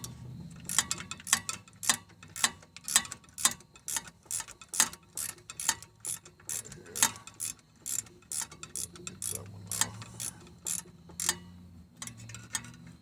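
Ratchet wrench clicking as a loosened bolt on the engine bracket is backed out, with sharp clicks coming about two a second.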